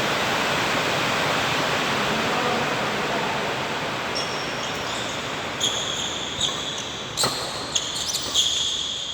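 Steady crowd and hall noise in an indoor badminton arena; about four seconds in a rally starts, with shoes squeaking on the court and sharp racket hits on the shuttlecock roughly every half second to a second.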